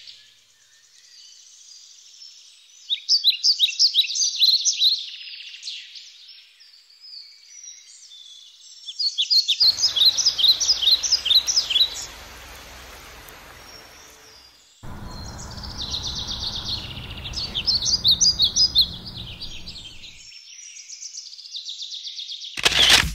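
A songbird sings in three bursts a few seconds apart, each a rapid run of high chirps. A low background rumble runs under the middle of it, and music cuts in loudly at the very end.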